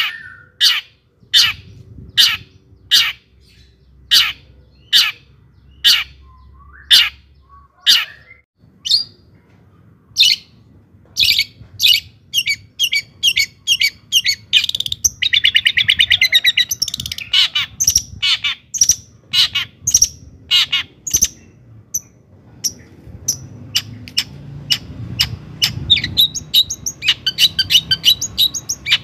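Long-tailed shrike (cendet) singing: sharp single notes about every half to one second, then quicker chattering with a dense trill about halfway through, and rapid repeated notes after it.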